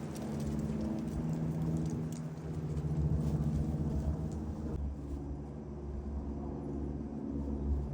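A gas boiler running with a steady low mechanical hum from its blower and pumps, with a hiss over it that drops away about five seconds in. The boiler is being shut down because of a failed heat exchanger.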